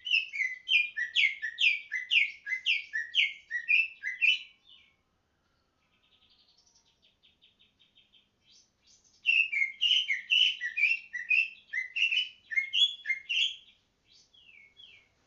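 Green leafbird (cucak hijau) singing loudly in fast runs of sharp, falling whistled notes. It sings for about five seconds, pauses with a few soft notes, then breaks into a second long run, and a few notes follow near the end.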